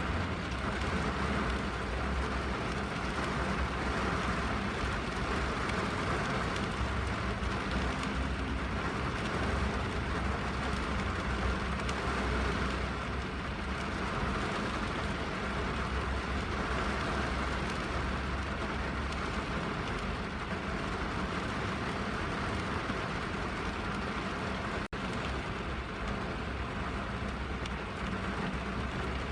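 Rain falling on a car's roof and windows, heard from inside the car: a steady hiss over a low rumble. The sound dips for an instant near the end.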